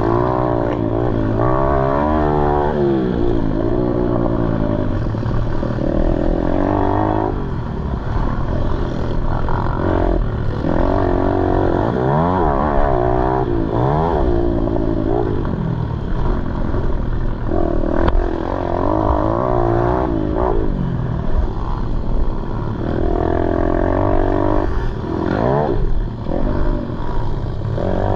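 Pit bike engine racing hard, its pitch repeatedly climbing as it revs and dropping back as it shifts or comes off the throttle.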